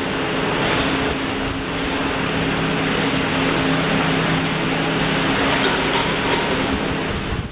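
Arc welding noise: a steady hiss with crackle over the continuous hum of welding machines, cutting off abruptly at the end.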